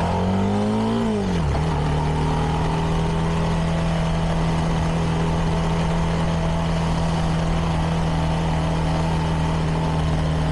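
CFMoto 300NK's single-cylinder engine through its stock exhaust: the revs climb for about a second, drop sharply, then hold a steady note.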